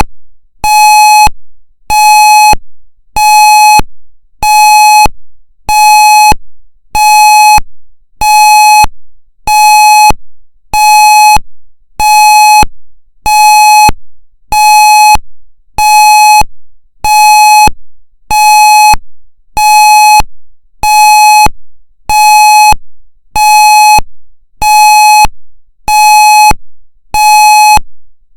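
Federal Signal MCP sounding its pulse signal: a loud, buzzy tone switching on and off about once a second in a steady, even rhythm, each beep dying away quickly when it stops.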